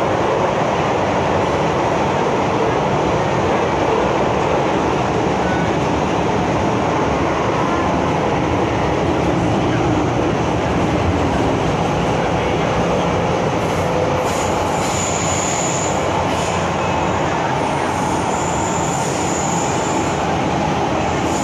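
MTR Kwun Tong Line M-Train running, a steady loud rumble of wheels on rail. About two-thirds of the way through, a high-pitched squeal comes and goes several times, in keeping with the train's squealing brakes.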